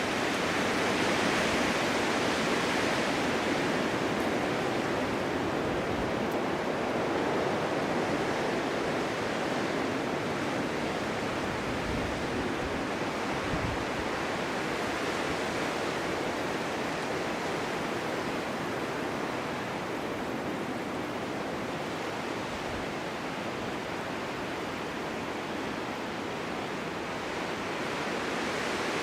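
Snowstorm wind blowing steadily as a full, even rushing noise, swelling a little in a gust near the start.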